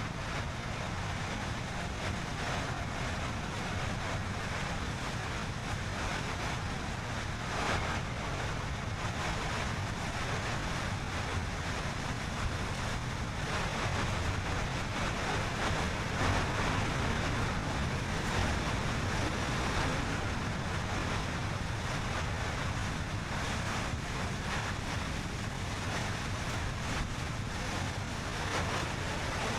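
Steady road and wind noise from a car driving at speed: an even rushing hiss with a low rumble, swelling slightly now and then.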